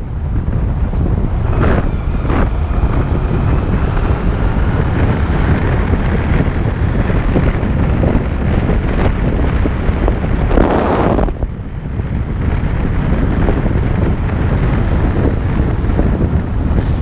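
Heavy wind buffeting the microphone of a moving motorcycle, with the engine running underneath.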